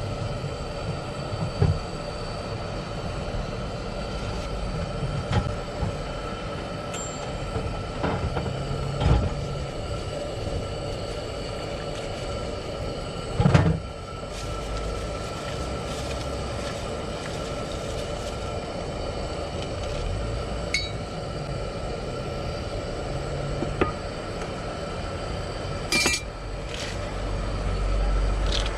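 A steady mechanical hum with several held tones, broken by occasional short knocks and clinks of kitchen utensils. The loudest knock comes about halfway through.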